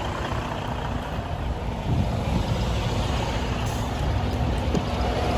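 Semi truck's diesel engine running steadily with a low rumble that grows a little stronger about two seconds in.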